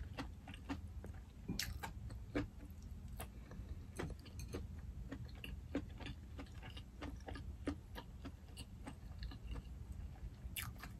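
A person chewing food with the mouth closed, close to the microphone: faint, irregular small mouth clicks and smacks.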